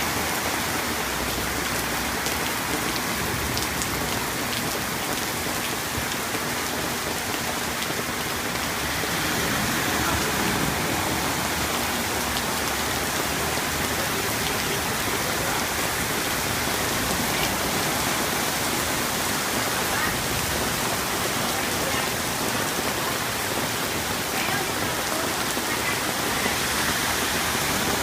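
Rain falling steadily: a continuous even hiss with a few sharper drop taps, getting slightly louder about nine seconds in.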